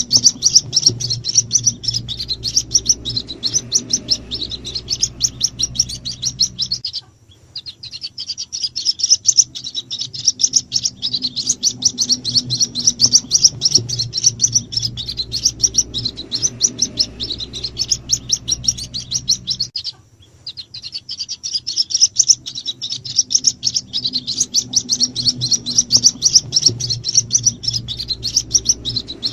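White-breasted waterhen (ruak-ruak) chicks peeping in a fast, unbroken string of short high calls. This is a recorded lure call, played to draw in the parent birds. The calling breaks off briefly twice, about 7 and 20 seconds in, over a faint low hum.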